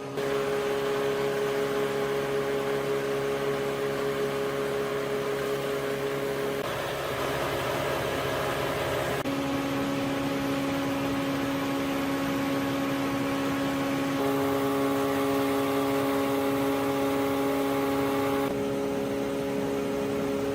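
Rice milling machine running steadily: a constant motor hum over a hiss, with the hum's pitch and tone shifting abruptly a few times.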